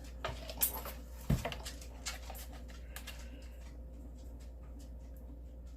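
Light clicks and taps of soapmaking containers and tools being handled, with one heavier knock about a second in, over a steady low hum.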